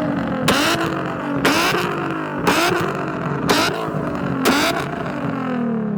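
Car engine revving hard in repeated surges about once a second, each with a short burst of noise, as at a street takeover. Near the end the revs fall away in one long drop.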